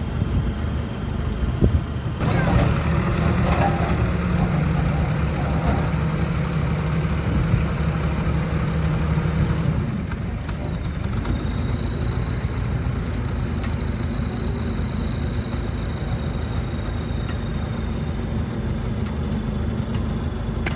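Heavy diesel construction machinery running under load. The engine note rises about two seconds in, with a run of sharp metallic clanks and a high whine, then settles to a steadier sound about halfway through.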